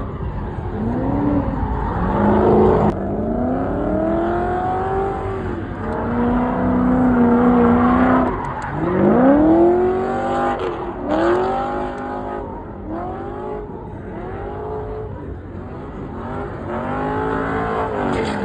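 Ford Crown Victoria's V8 revving up and down over and over while the car does donuts, its spinning tyres squealing. The engine pitch climbs and drops every second or two.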